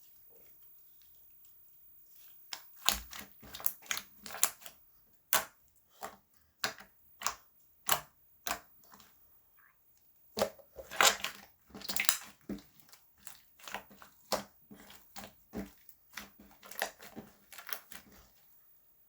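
Slime being pressed and worked by hand, giving irregular sharp pops and crackles that start about two seconds in and come thickest near the middle.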